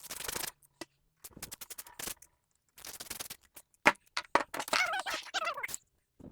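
Hand disassembly noises from an old Craftsman chainsaw: scrapes, clicks and knocks of its plastic and metal parts being handled as a part is taken off. A wavering squeal comes about two-thirds of the way through.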